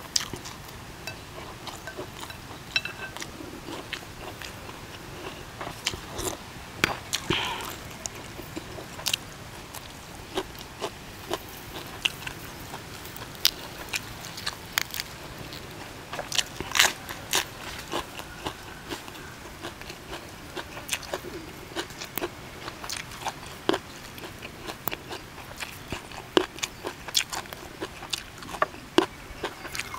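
Close-miked eating: a person chewing and crunching mouthfuls of crispy-skinned duck laab and raw vegetables, with many irregular crisp crunches and bites.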